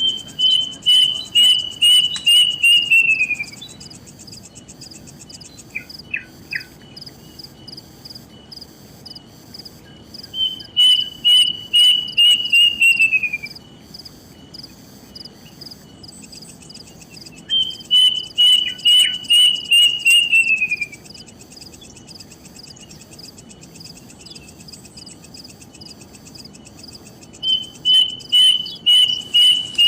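A bird calls four times. Each call is a quick run of about eight loud whistled notes on one pitch, sliding down at the end. A steady high insect trill, crickets, runs underneath throughout.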